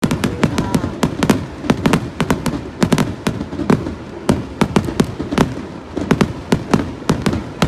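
Fireworks going off in quick, irregular succession: sharp bangs and pops, several a second, with no break.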